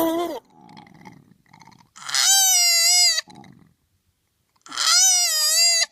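An animal calling twice, each call loud, wavering in pitch and a little over a second long, with faint low sounds before them.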